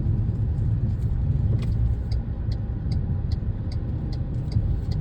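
Steady low road rumble of a moving vehicle on the road, with faint light ticks repeating through the second half.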